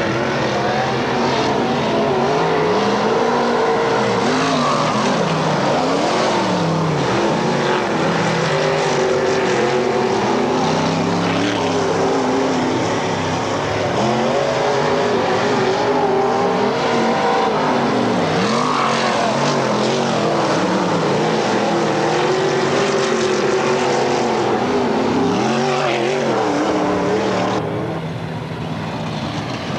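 Several dirt-track race car engines running at racing speed, their notes rising and falling as the cars accelerate and back off around the oval, many overlapping. The sound turns duller and a little quieter near the end.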